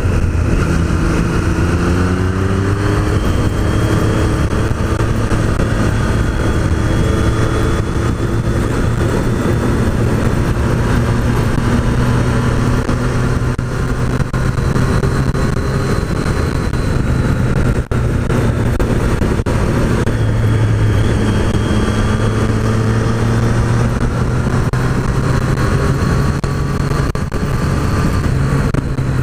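Triumph Street Triple's three-cylinder engine running under way, its pitch rising and falling with the throttle, under a steady rush of wind noise.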